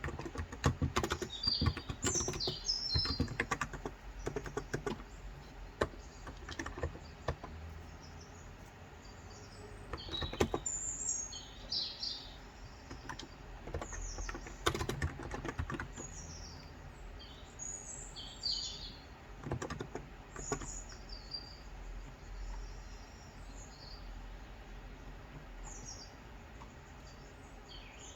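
Keystrokes on a Cox Endeavor 35 g contactless (electro-capacitive) tenkeyless keyboard: a quick run of typing for the first few seconds, then only scattered keypresses. Birds chirp in short high phrases throughout.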